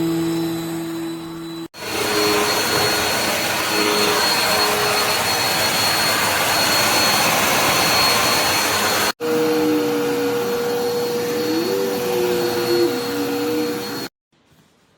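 Dirt Devil Endura Lite bagless upright vacuum cleaner running, a steady rushing motor sound with a high whine. It drops out for an instant twice and cuts off abruptly near the end.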